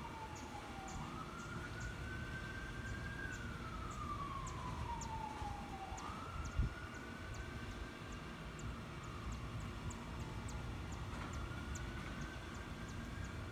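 An emergency vehicle's siren in wail mode, its single tone rising over about a second or two, holding, then falling slowly, repeating every few seconds. It is heard at a distance, with faint, evenly spaced high ticks behind it.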